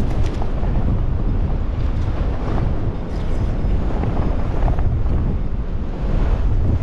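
Gale-force wind buffeting the microphone: a loud, steady, low rumble.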